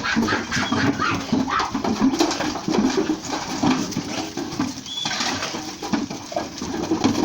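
Goats and other farm animals making sounds in their pen, with one short high bird chirp about five seconds in.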